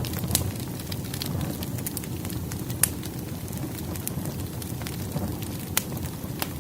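Wood fire crackling: a steady low rumble of burning logs, dotted with sharp pops and snaps. Louder pops come just after the start, near three seconds and near six seconds.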